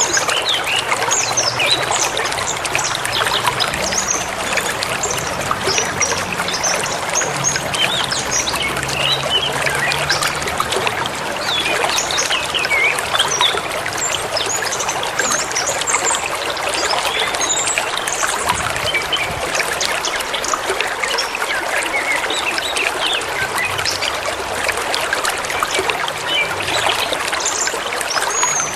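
Forest river flowing with a steady rush of water, with many small birds chirping and calling over it throughout.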